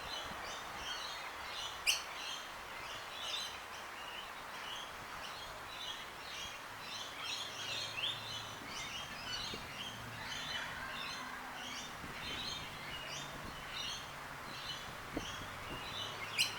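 Birds chirping, many short high calls overlapping throughout over a steady background hiss, with one sharp click about two seconds in.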